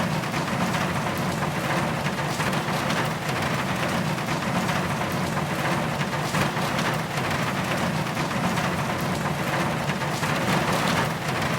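Heavy rain falling, a steady even hiss of drops.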